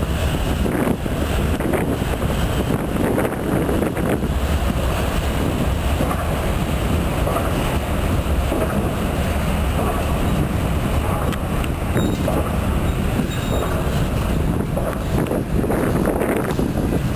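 Freight train of hopper cars rolling past at speed: a steady heavy rumble of steel wheels on rail, with scattered knocks and a few faint high wheel squeals in the second half.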